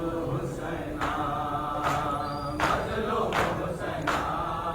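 A group of voices chanting a Muharram lament (noha) with held, drawn-out notes. From about two seconds in, sharp strikes keep time roughly every three-quarters of a second.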